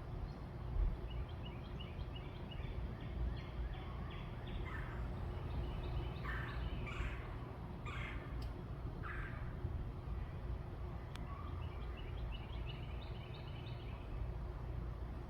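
Backyard birds calling over a steady low rumble. Quick repeated chirps come at the start and again near the end. In the middle, four or five louder, harsher calls follow each other about a second apart.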